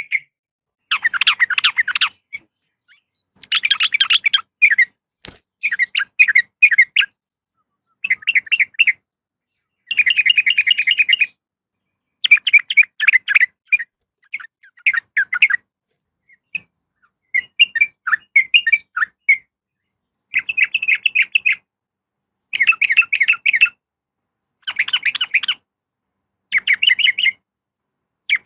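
Sooty-headed bulbul (trucukan) calling: about a dozen short bouts of rapid chattering notes, each about a second long, with dead silence between bouts. It is presented as a female calling for a male.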